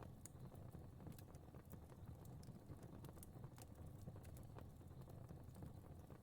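Fire crackling faintly: small irregular pops and snaps, several a second, over a soft low rumble of burning.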